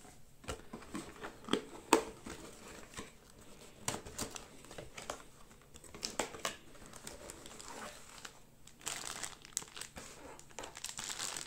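Packaging being unpacked by hand: crinkling and rustling with scattered small clicks and knocks, the crinkling getting denser near the end.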